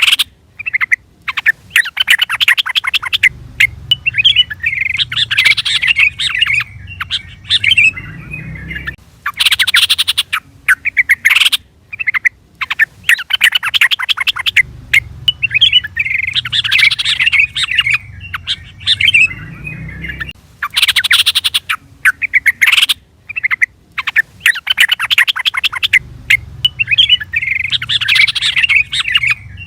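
Yellow-vented bulbul (trucukan) calling and singing: bouts of rapid chattering notes alternate with bubbly warbled phrases, the same sequence repeating about every eleven seconds as a looped call recording.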